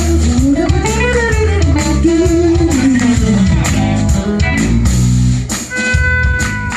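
A live band playing: guitar and bass over a steady drum beat, with a long held note near the end.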